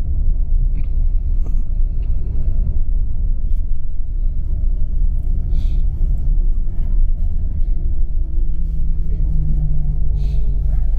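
Tour coach running along a road, heard from inside the cabin: a steady low rumble of engine and tyres. Near the end a low engine tone comes up and slowly falls in pitch as the bus slows.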